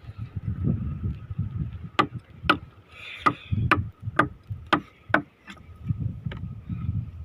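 A run of about eight sharp knocks, roughly two a second, over a low rumbling noise and a faint steady high tone.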